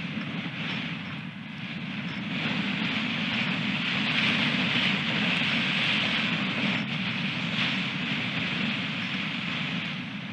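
Strong wind blowing over the microphone in gusts, swelling loudest through the middle and easing toward the end.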